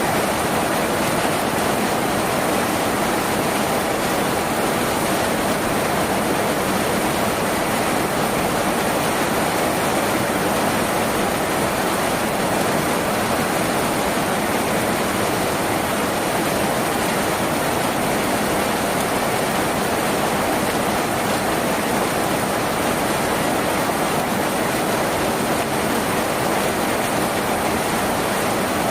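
Rain falling steadily on a tin roof, a dense, even hiss with no let-up.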